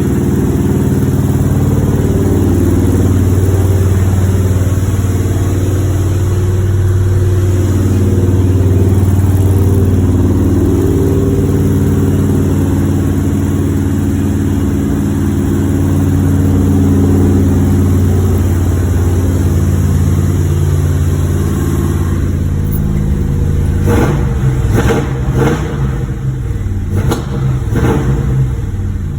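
1963 Chevrolet Bel Air engine running steadily soon after a cold start. In the last few seconds it turns uneven, with a string of short, sharp sounds.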